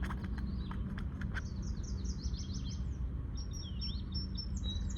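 A songbird singing a rapid run of high chirping notes from about a second and a half in, over a steady low rumble. A few sharp clicks come in the first second and a half.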